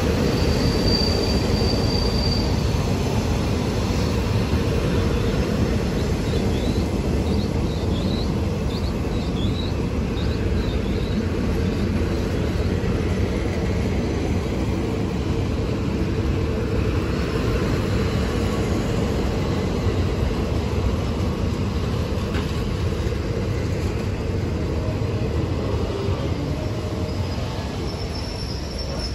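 Train of passenger coaches rolling slowly along the track past the platform: a steady rumble of wheels and bogies, with a run of short high squeaks about a quarter of the way in. The rumble eases slightly near the end as the last coach goes by.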